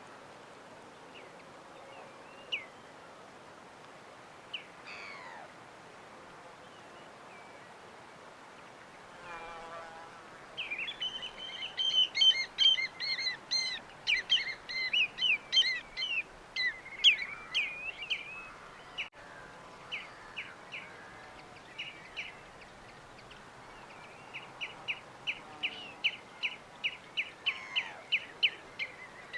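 Small birds chirping: a few scattered calls, then a dense bout of rapid twittering through the middle, and near the end a fast run of short, evenly repeated chirps.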